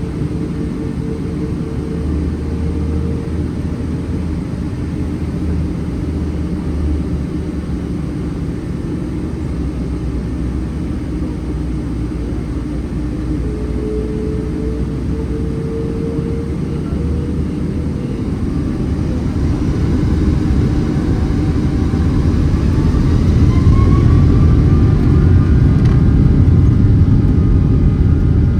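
Cabin noise of a Boeing 777-300 with Rolls-Royce Trent 800 engines: a steady low rumble. From about twenty seconds in, an engine whine climbs in pitch and the sound grows louder as the engines spool up.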